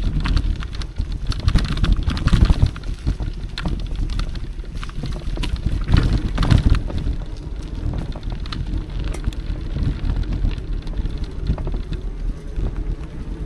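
Wind buffeting the microphone while riding an electric mountain bike on a forest trail, over a steady low rumble from the tyres. Frequent small clicks and rattles run through it.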